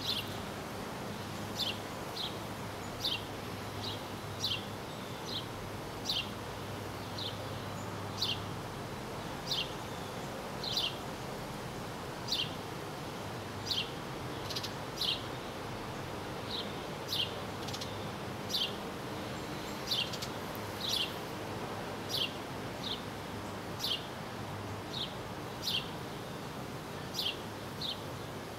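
A bird repeating a short, high chirp that falls in pitch, a little more than once a second, over a steady low hum and hiss.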